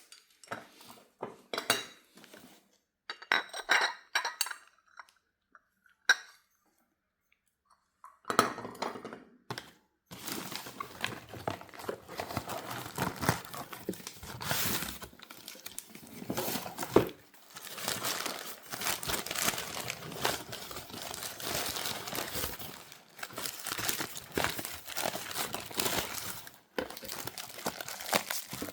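Teacups clinking and tapping as they are handled, a series of separate clinks over the first few seconds. After a short pause, a continuous rustling of packaging runs on to the end.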